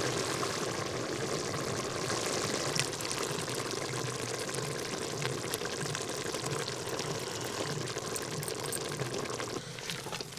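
Chicken and masala cooking in a pan over a campfire: a steady sizzling hiss that drops off suddenly near the end.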